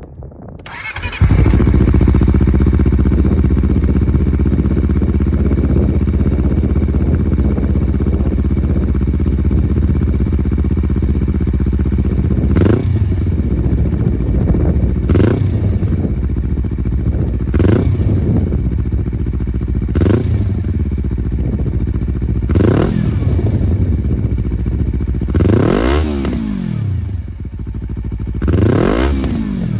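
Honda CBR250RR MC51's parallel-twin engine breathing through a Moriwaki exhaust with an SP Tadao Power Box pipe: it starts about a second in and idles steadily, then from about halfway is revved in seven quick throttle blips, the last two higher. Sharp cracks come near the blips, the popping that this exhaust makes when the throttle is closed.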